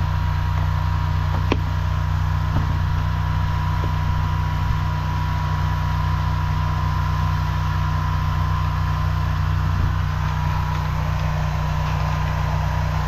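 Engine running steadily at an even speed, with a thin steady whine above it. A single sharp click sounds about a second and a half in.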